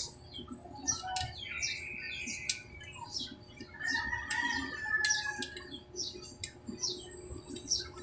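Birds chirping in many short, irregular high calls, with two longer steady squeaks, one about a second and a half in and one from about four seconds in.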